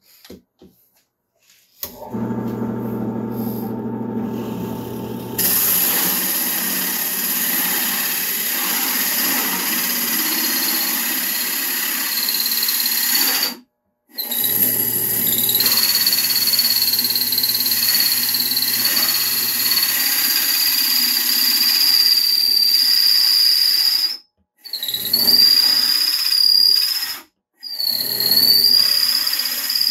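Drill press with a hole saw starting up and cutting into wood, with a high squealing whine over the motor hum. It stops abruptly and restarts several times in shorter runs.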